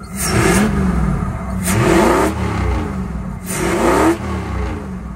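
Ford 5.0L (302) V8 revved three times, each blip rising and falling back to idle, its intake roar coming through a cone filter mounted inside the cab. The engine is missing, which the owner thinks may need a distributor cap.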